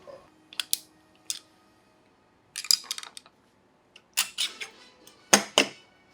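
Sharp metallic clinks and clicks of hand tools and metal engine parts being handled during engine assembly. They come in a few short clusters, the loudest pair near the end.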